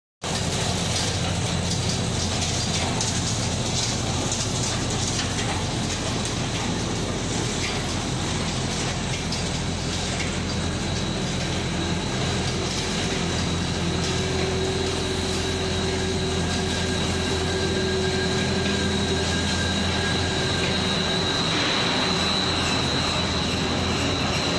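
Wire drawing line running steadily: continuous machine noise with a high, steady whine, and fainter tones that come in midway and drop out a few seconds before the end.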